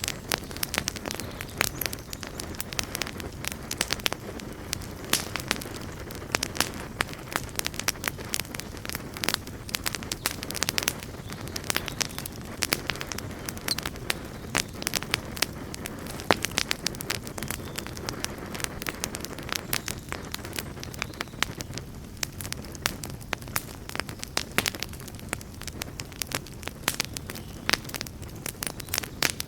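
Campfire burning with dense, irregular crackles and pops over a steady low roar of flames.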